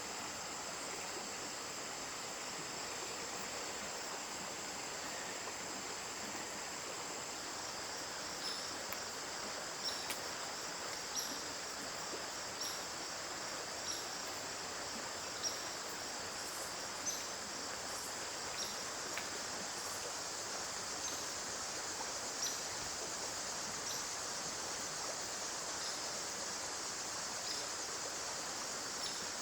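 Steady high-pitched insect chorus over an even rushing of stream water, with a short high chirp repeating about every second and a half from about eight seconds in.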